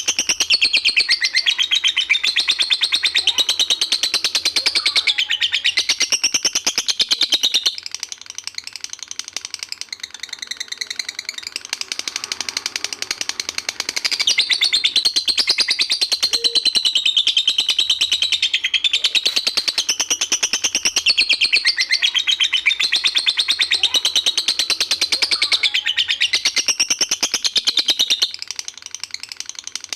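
Lovebird singing its long 'ngekek' chatter: a very rapid, unbroken run of high shrill notes. It is loud for the first eight seconds or so, softer for about six seconds, then loud again for about fourteen seconds before dropping back.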